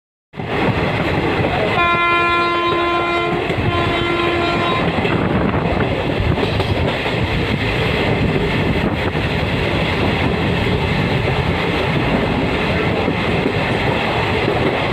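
A passenger train running on the rails with a steady rumble and wheel clatter. The locomotive horn sounds two blasts about two seconds in, the first longer than the second.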